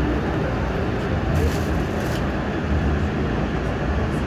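MTR M-Train electric multiple unit running, heard from on board: a steady rumble of wheels and running gear, with a brief high hiss about a second and a half in.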